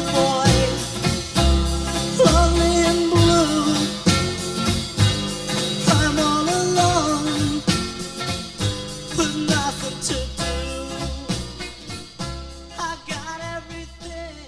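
Recorded oldies pop song, with a lead vocal over a band and a steady beat, fading out.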